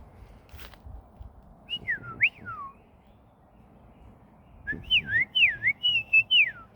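A person whistling to a bird: two bursts of smooth whistled notes swooping up and down, a short phrase about two seconds in and a longer run of quick up-and-down glides near the end.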